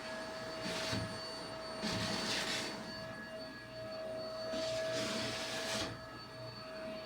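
Vacuum cleaner running on carpet, pre-vacuuming before carpet cleaning: a steady high motor whine, with a rushing airflow noise that swells and falls about three times.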